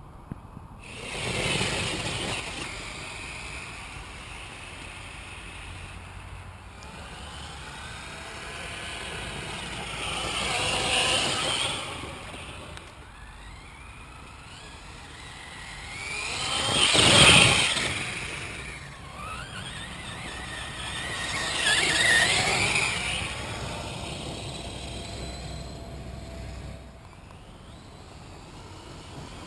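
Electric HPI Savage Flux RC monster truck driving off-road, its brushless motor and geared drivetrain whining up and down with four bursts of throttle. The loudest burst comes about two-thirds of the way through.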